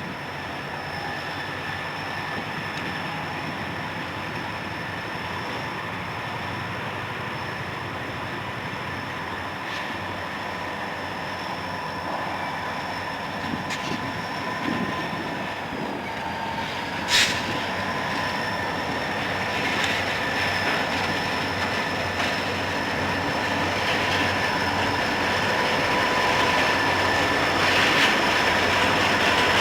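Train rolling by on the rails with a steady high-pitched squeal over the rumble, a sharp click about 17 seconds in, and growing louder toward the end.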